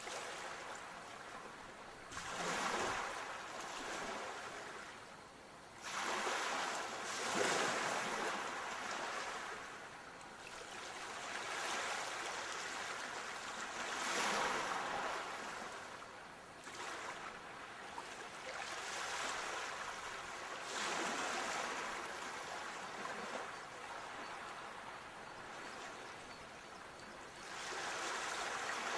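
Sea waves breaking on a shore: a surge of surf every few seconds that swells and then washes away, with a steady wash of water in between.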